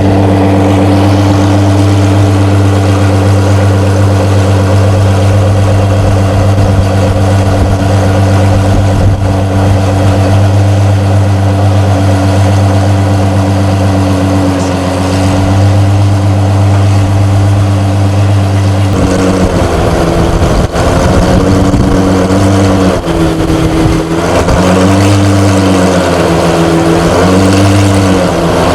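De Tomaso P72 engine idling steadily, then from about two-thirds of the way through its speed rises and falls several times in light rev blips.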